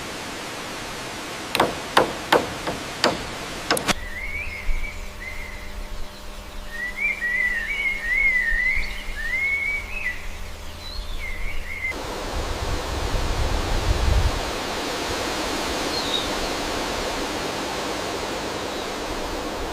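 About six sharp wooden knocks like chopping blows in the first few seconds, then a bird singing a quick warbling song for several seconds, then the steady rush of a waterfall.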